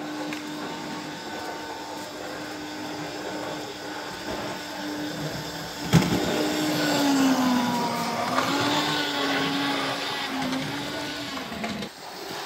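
Gauge 0 model locomotive's electric motor whining as the locomotive runs fast along the track. The whine is steady at first, then dips and wavers in pitch from about halfway. There is a sharp click about six seconds in, and the whine dies away near the end.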